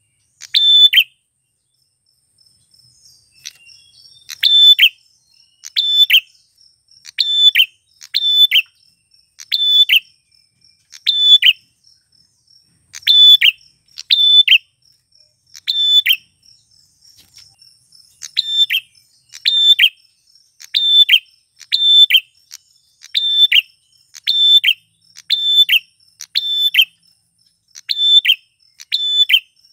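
Male prinia (prenjak klawu) calling: sharp, loud chirping notes near 4 kHz, repeated one or two at a time about every second, after a short pause at the start. A faint, steady, high insect-like trill runs underneath.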